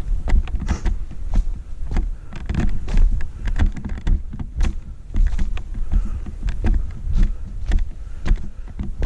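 Footsteps crunching over a rocky trail, irregular steps and scuffs, over a constant low rumble on the microphone.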